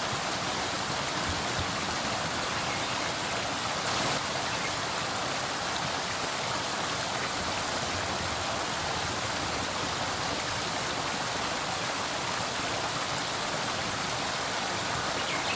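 Waterfall water rushing steadily as an even hiss, with a brief slightly louder surge about four seconds in.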